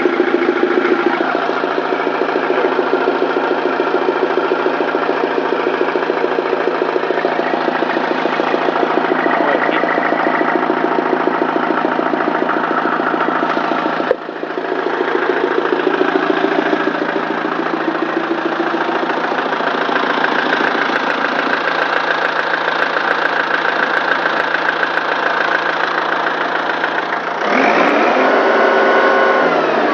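Kubota M108S tractor's diesel engine running steadily at idle after its fuel injection system was bled of air, its noise unchanged by the bleeding. Near the end the engine note dips in pitch and comes back up.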